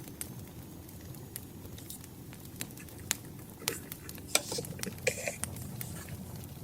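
Wood fire crackling, with scattered sharp pops over a steady low rumble. A denser run of louder pops and short rustles comes about four to five and a half seconds in.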